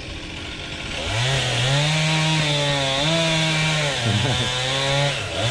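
A chainsaw running at high revs from about a second in, its pitch rising and sagging as it works through the wood, with a short dip around four seconds in and another near the end.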